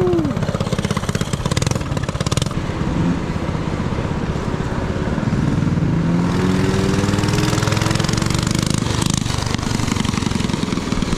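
Motorcycle engine running steadily while riding, with wind noise. About five seconds in its pitch rises briefly as it accelerates.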